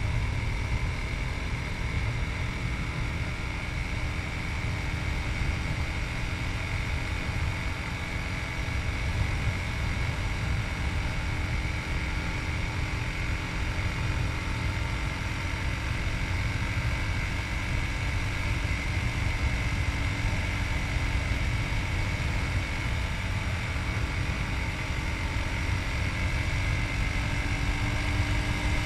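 Yamaha MT-03's 660 cc single-cylinder engine running steadily while riding, mixed with wind noise on a chest-mounted camera's microphone. The engine note and level rise slightly near the end.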